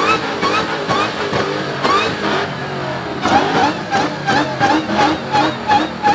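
Performance car engine revving over and over in short rising bursts.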